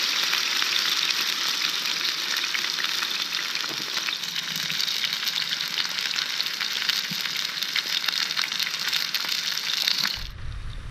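Chicken breast frying in a hot frying pan: a steady, loud sizzle with many small crackles and pops. It cuts off abruptly about ten seconds in, giving way to a low rumble.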